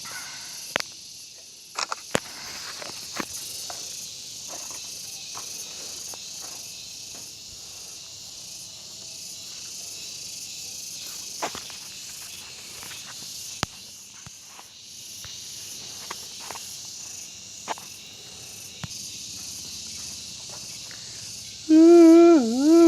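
Steady high-pitched insect chirring with scattered sharp clicks and ticks. Near the end, a person's voice starts humming a loud held note that dips in pitch and comes back up.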